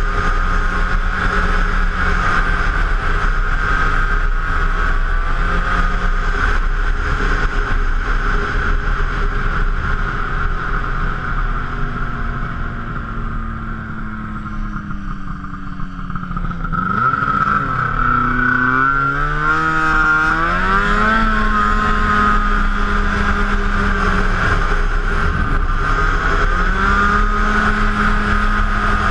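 Arctic Cat F7 snowmobile's 700cc two-stroke twin running at steady trail speed. It backs off about halfway through, then revs up in a rising sweep and settles back to a steady pitch.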